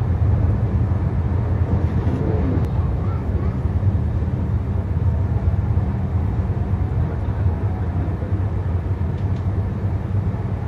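Steady low rumble of the Gatimaan Express passenger train running, heard from inside the coach.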